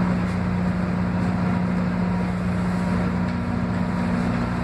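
Steady machine hum with a constant low tone and even background noise, unchanging throughout.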